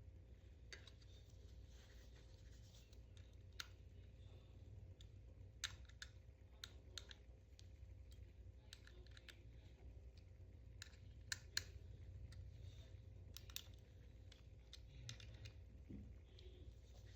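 Near silence over a low steady hum, with sparse faint clicks and taps scattered throughout, as of small objects being handled.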